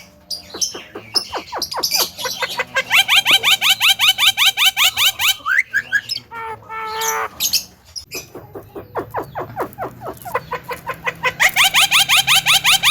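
Javan myna (jalak kebo) calling: long runs of fast, evenly repeated rising notes, about seven a second, broken near the middle by a short, harsher pitched call.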